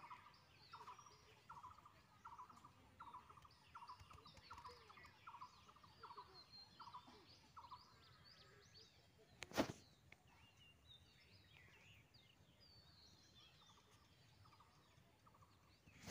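Faint outdoor birdsong, several birds chirping, with one call repeated about twice a second for the first seven seconds or so. A single sharp knock comes about halfway through.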